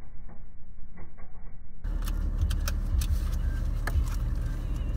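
Warm BMW E46 diesel engine idling steadily after a drive, heard from inside the car, a low even hum with scattered light ticks.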